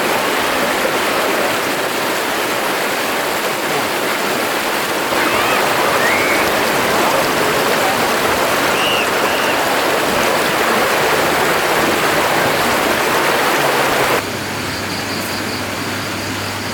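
Stream water rushing steadily, with a few short high chirps over it. About two seconds before the end it cuts off suddenly to a quieter sound with a low steady hum.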